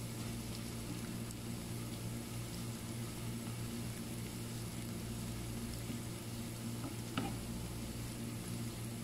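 Sliced onions, bay leaves and whole dried red chillies sizzling steadily in hot oil in a pan as they are stirred with a wooden spatula, frying the tempering (tarka) for kadhi. There is one sharp click a little after seven seconds in.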